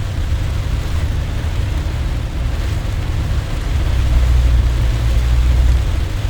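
Heavy thunderstorm rain falling on and around a car, with a deep, steady low rumble underneath that grows louder about four seconds in.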